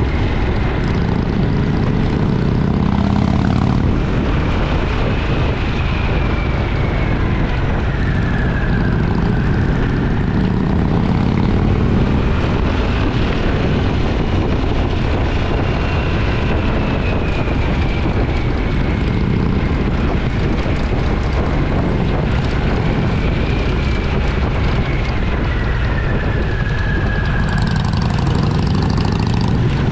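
Motorcycle engine running steadily while riding at road speed, with wind and road noise, and a faint tone drifting up and down in pitch a few times.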